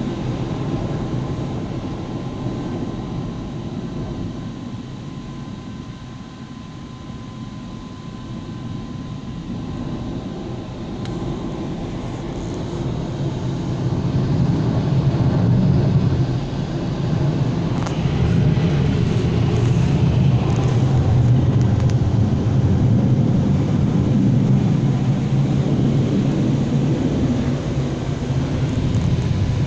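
Automatic car wash machinery running: a steady, heavy rush of noise that grows louder about halfway through.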